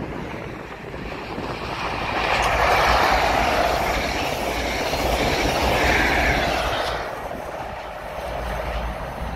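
A diesel High Speed Train passing close by at speed: the rush of its wheels on the rails and its power car builds about two seconds in, stays loud for several seconds, then fades as it moves away.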